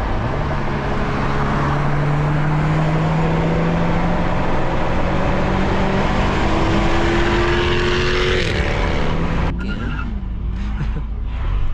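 A car engine pulling hard at full throttle, its pitch climbing steadily for about eight seconds, then cutting off sharply as the throttle is lifted, with the engine running on at lower, unsteady revs near the end.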